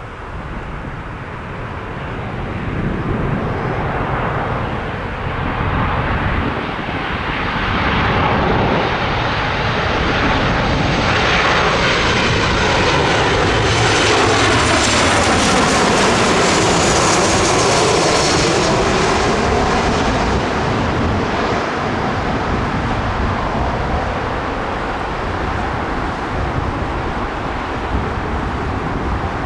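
Airliner passing low overhead, its engine noise building to a peak about halfway through, with a whine that falls steadily in pitch as it goes by.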